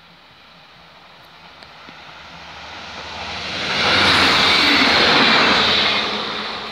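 A short passenger multiple-unit train passing at speed: its rushing noise swells as it approaches, is loudest for about two seconds as it goes by, then fades.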